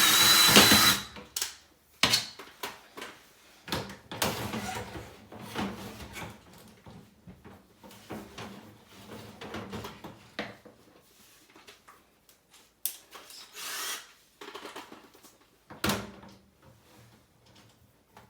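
A drill spinning a dryer vent cleaning rod stops about a second in; then scattered knocks, clicks and short scrapes follow as the flexible rod sections of the lint-brush kit are pulled out of the duct and unscrewed from one another.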